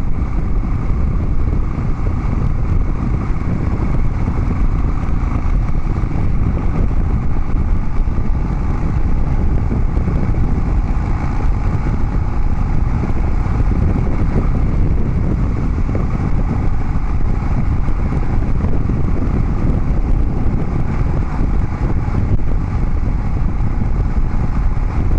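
Harley-Davidson Dyna Street Bob's V-twin running through a Vance & Hines Big Radius 2-into-2 exhaust while riding, a steady, even exhaust sound with no marked revving.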